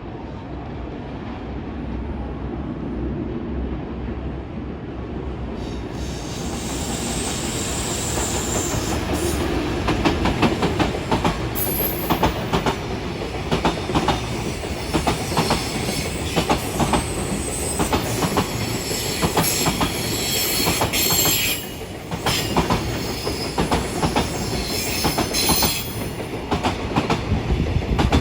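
A container freight train passing along the line. The rumble builds at first, then the wheels clack steadily over the rail joints with a high wheel squeal.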